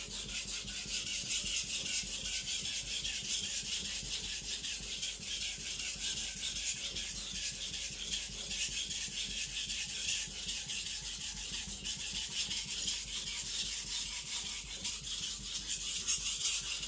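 A carbon-steel gyuto blade ground with rapid, steady back-and-forth strokes on a wet Japanese water stone, a continuous gritty hiss: the bevel being lowered and the blade thinned.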